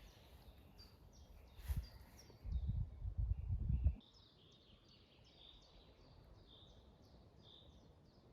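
A small bird singing repeated short chirps, each a quick falling note, steady in the second half. Before that, a thump and a couple of seconds of low rumbling noise, loud in the bass, which are likely handling or movement close to the microphone.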